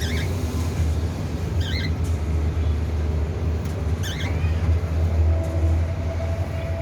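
Cockatiel chirps: three brief calls of two or three quick notes each, a couple of seconds apart, over a steady low rumble.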